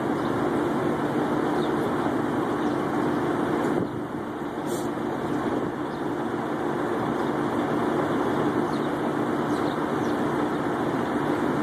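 Diesel truck engines idling, a steady low drone that dips slightly about four seconds in.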